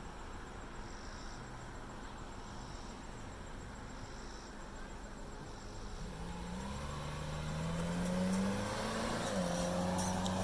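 A car engine accelerating, getting louder over the last four seconds. Its pitch climbs, drops once and then holds steady, over a steady background hiss.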